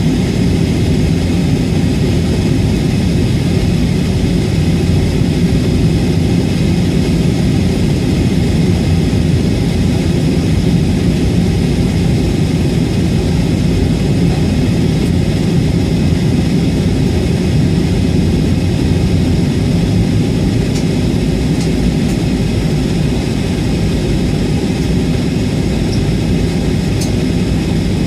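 Steady cabin noise inside an Airbus A320 airliner on approach: a continuous low rumble of engine and airflow, unchanging throughout.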